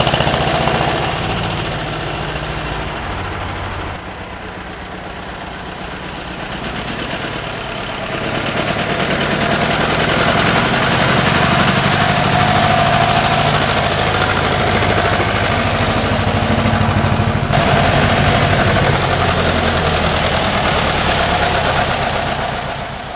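1951 Güldner AF 20 tractor's diesel engine running just after a hard cold start in freezing weather without preheating. Its speed sags for the first several seconds, then picks up about eight seconds in and runs steadily.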